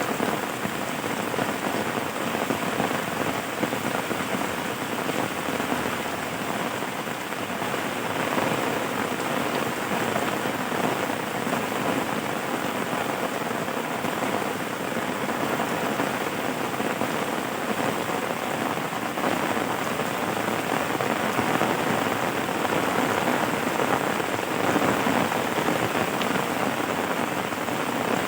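Steady rain falling on a surface: a dense, even patter of drops that keeps on without let-up.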